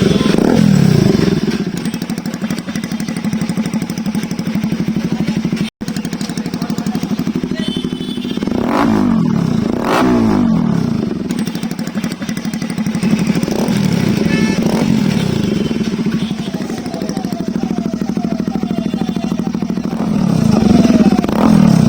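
Bajaj Pulsar RS 200 single-cylinder engine idling through an aftermarket SC Project-style exhaust, blipped up and back down several times, with pairs of quick revs in the middle and another near the end.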